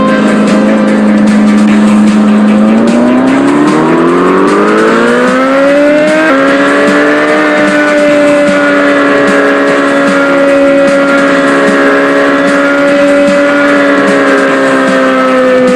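Small motorbike engine running, revving up in pitch for a few seconds, then holding steady at the higher speed.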